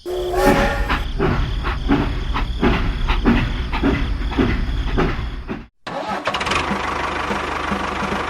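A small motor running with a rough, irregular knock about two to three times a second. It cuts off abruptly past the middle, then a steadier machine hum with a faint regular pulse takes over.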